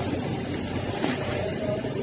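Machinery running with a steady low hum and drone.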